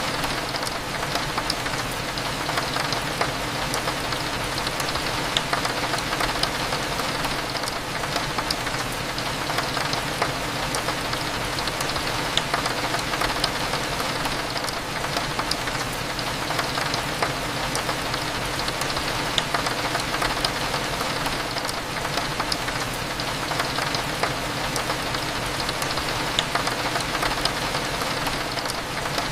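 Steady rain with scattered drop ticks on window glass, over a low, even cafe hum.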